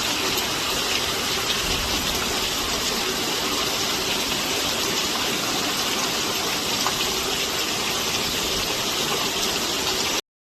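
Rain falling steadily, a dense even hiss that cuts off suddenly near the end.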